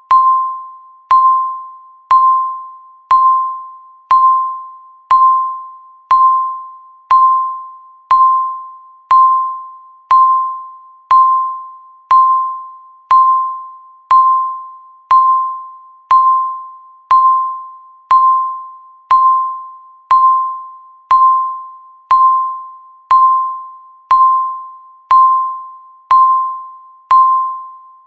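Countdown timer beeping once a second: a short electronic tone that starts sharply and fades before the next one.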